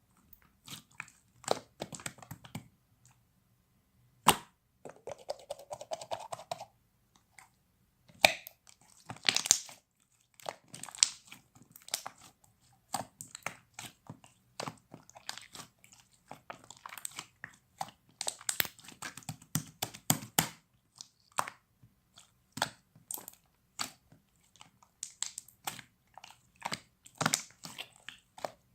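Close-up handling noise: irregular clicks, taps and crinkling, with a short squeak about five seconds in.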